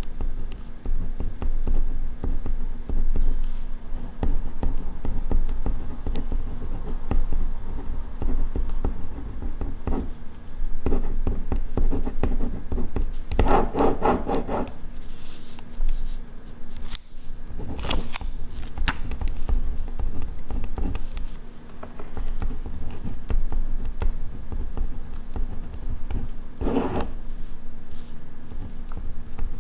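Ballpoint pen writing on paper: steady small scratching strokes and ticks, with a few louder, longer scratchy rustles, around halfway through and again near the end.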